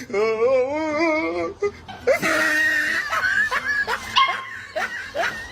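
A dog vocalising: a long wavering whine for about a second and a half, then a run of short, high-pitched calls.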